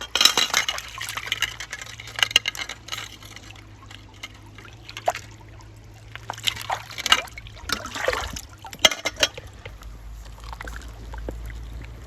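Water splashing and sloshing in a container in irregular bursts, busiest at the start and again a little past the middle, tapering off near the end.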